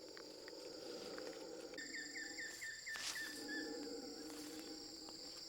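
Rainforest insects keeping up a steady high drone, with a run of quick repeated chirps starting about two seconds in and lasting about two seconds.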